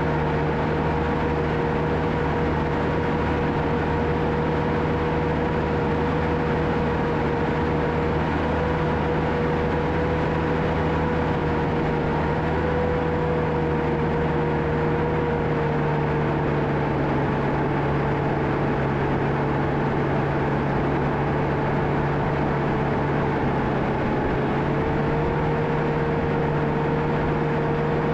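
John Deere 650K crawler dozer's diesel engine running steadily while working, with a steady whine over the engine hum that sags a little in pitch partway through and comes back up near the end.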